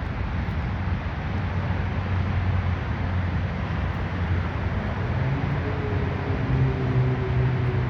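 The 1973 Ford Bronco's 302 V8 running with a steady low engine note over a constant rushing noise; about five and a half seconds in, the engine note changes and grows stronger.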